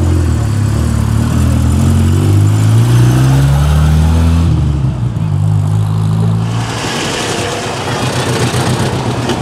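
Muscle car's engine accelerating hard, loud and deep, its pitch climbing until about four and a half seconds in, then dropping back and holding steadier. A broad hiss joins about seven seconds in.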